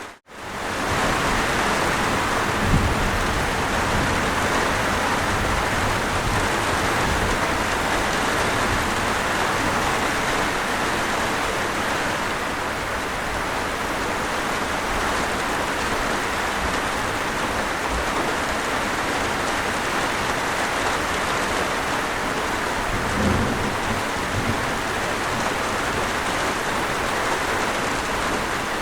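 Steady heavy rainfall, an even hiss of rain on a surface. The rain cuts out for a split second at the very start, and two brief low rumbles come through, a few seconds in and near the end.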